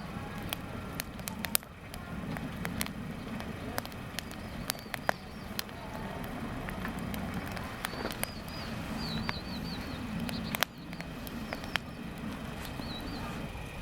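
Wood campfire crackling, with irregular sharp pops throughout. A bird chirps in short bursts in the second half.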